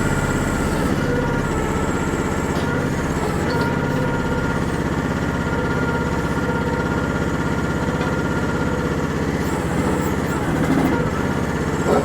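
Chinese-made micro excavator's small engine running steadily while the machine works, with a slight swell in level near the end.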